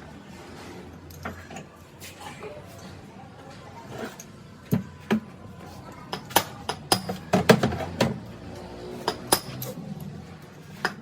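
Metal parts and hand tools clinking and knocking against one another: a few light knocks, then a run of sharp clinks from about halfway through.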